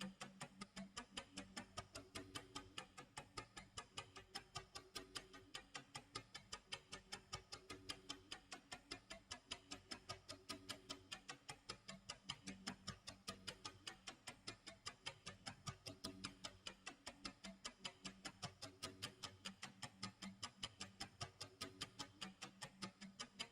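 Clock tick-tock sound effect: faint, even ticks at about four a second, with soft low background music underneath.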